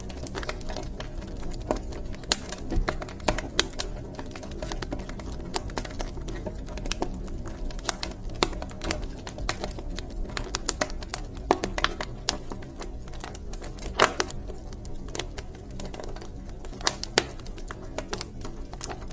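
Wood fire crackling in a fireplace: irregular sharp pops and snaps, some louder than others, over a steady low rumble of burning.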